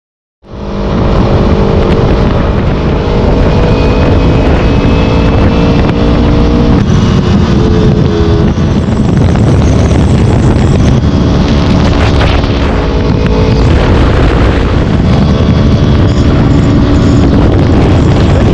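Kawasaki motorcycle engine running while riding, under a heavy rumble of wind on the microphone. The engine's pitch steps up and down a few times. The sound starts abruptly just under half a second in.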